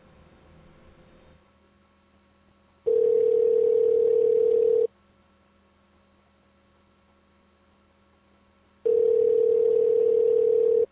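Telephone ringback tone: the called line is ringing on the caller's end. It is a steady two-second tone twice, about four seconds apart, in the North American ringing cadence.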